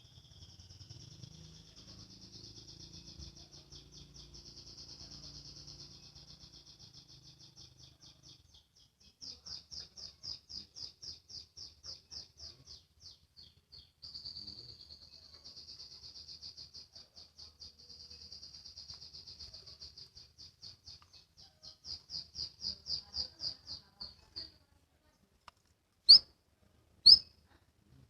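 Domestic canary singing a long rapid trill of repeated high notes in the 'ngriwik' style, some runs so fast they blur into one, others at about four notes a second. The song stops a few seconds before the end, followed by two loud sharp clicks about a second apart.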